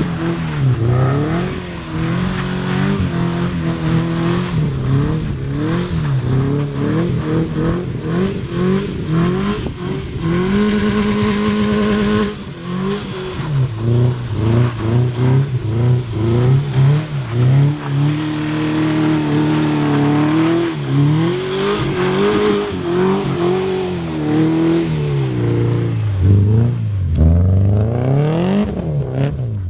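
Subaru flat-four boxer engine and exhaust, revved up and down over and over as the car is drifted and spun on snow. The revs hold steady and high for about two seconds roughly a third of the way through.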